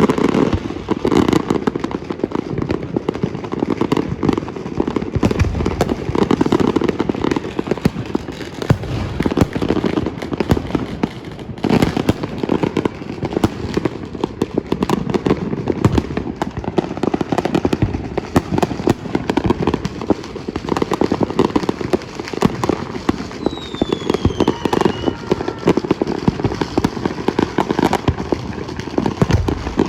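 Many fireworks and firecrackers going off at once in a dense, continuous crackle of pops and bangs, with a brief falling whistle about two-thirds of the way through.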